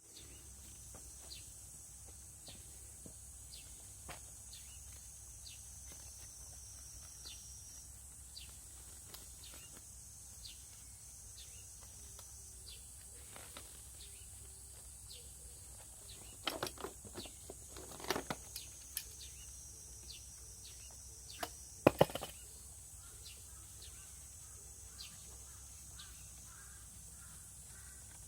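Faint outdoor ambience: a steady high hiss with scattered bird chirps. A few sharp knocks and clacks come about two-thirds of the way through, the loudest near 22 seconds, and a crow starts cawing near the end.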